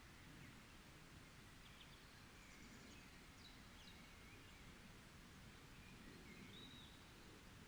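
Faint forest ambience: distant songbirds give short chirps and brief trills now and then, with a rising-and-falling call near the end, over a low steady background rumble.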